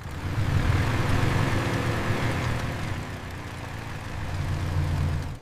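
Heavy vehicle engine running steadily with a low, even hum, easing off a little midway and building again.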